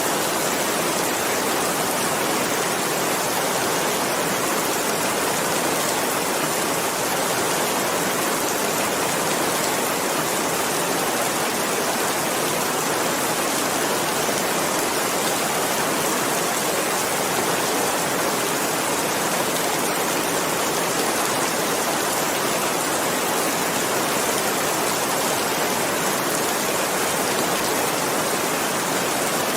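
Steady rain, a dense even hiss of falling drops with no breaks.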